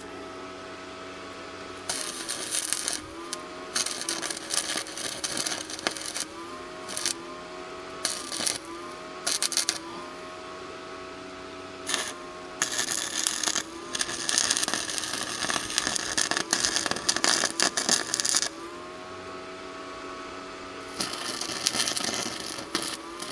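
Stick arc welding with an ARC 165 IGBT inverter stick welder: the arc crackles and sizzles in bursts of a few seconds with short pauses between, starting about two seconds in. A steady whine runs under it, dipping in pitch each time the arc strikes.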